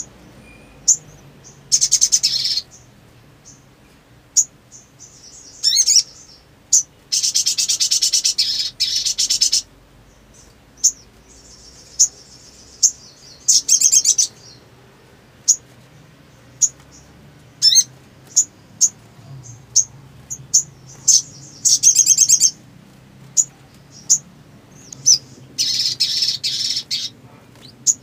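Sunbird calling: many short, sharp, high-pitched chips, broken by several rapid buzzy trills of about one to two and a half seconds each.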